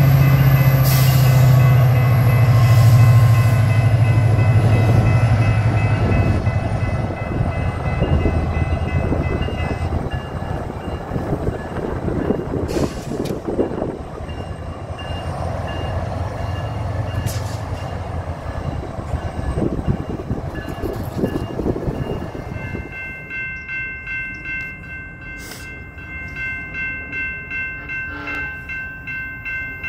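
SunRail commuter train running past, its diesel locomotive's engine a low drone that fades away, with level-crossing bells ringing over it. About two-thirds of the way in the train sound gives way to crossing bells ringing alone in a steady pulse.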